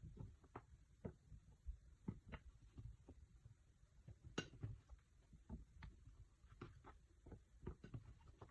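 Faint, irregular light taps and clicks, as from handling food and utensils, with one sharper click about four and a half seconds in.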